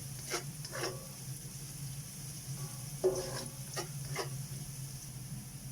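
Minced garlic sizzling in hot oil in a pan, with a utensil stirring and scraping it a few times; the garlic is frying to crisp.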